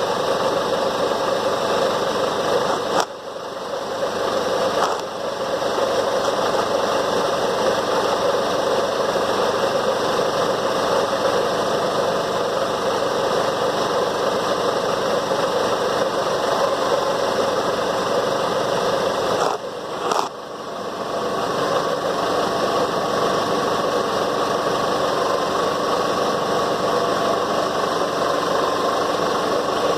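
An engine running steadily, with its level dropping briefly about three seconds in and again about twenty seconds in.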